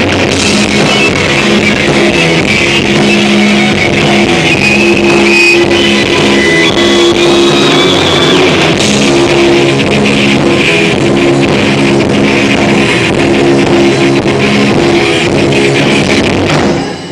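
Rock band playing live: guitar and drum kit in an instrumental passage, with sustained riffing notes over steady drumming. The level dips briefly just before the end.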